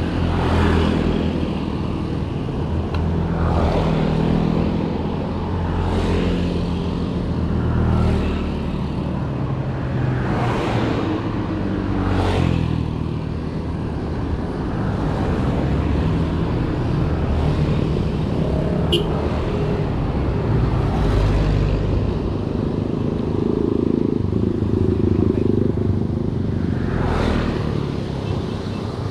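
Motor vehicle engine running with road noise.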